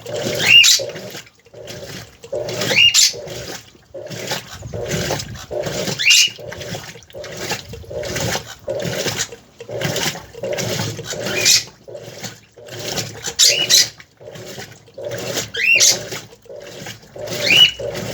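Central-agitator top-load washing machine in its rinse cycle, the agitator churning water and clothes back and forth in a quick, even rhythm. A short rising squeak comes every few seconds.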